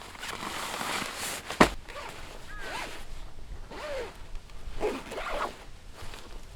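A zipper being pulled in several strokes, with a sharp click about one and a half seconds in.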